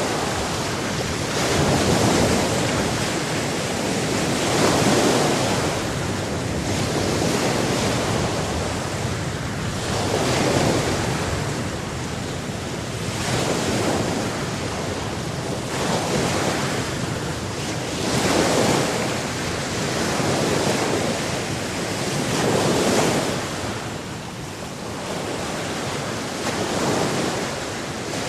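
Sea waves washing onto a shore, a steady rush that swells and falls back every two to three seconds.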